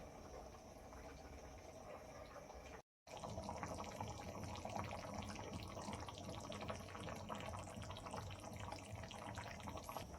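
Steady watery noise, dense with fine crackles, with a sudden gap of silence about three seconds in.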